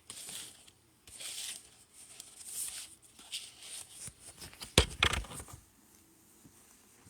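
Rustling and scraping in short bursts, then a few sharp knocks and bumps about five seconds in, like objects being handled.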